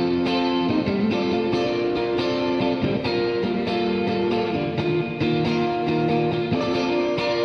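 Electric guitar played through a Donner Verb Square reverb pedal on its plate setting, with the decay and effect level turned down: picked notes several times a second, each ringing on into the next.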